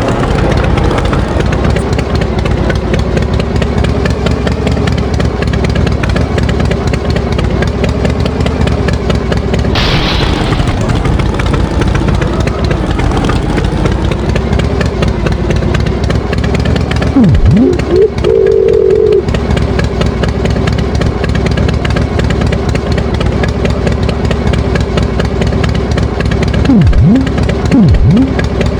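Tractor engine running steadily, with a brief hiss about ten seconds in, a short higher tone around eighteen seconds, and a few quick swooping sounds near the middle and the end.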